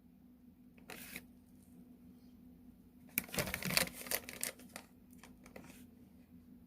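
Plastic packet of curry powder crinkling and rustling as it is handled and opened: one short rustle about a second in, then a burst of irregular crackling rustles near the middle that tails off.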